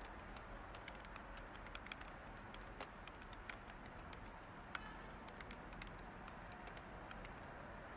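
Light computer keyboard keystrokes clicking sparsely and irregularly over a steady hiss of white noise.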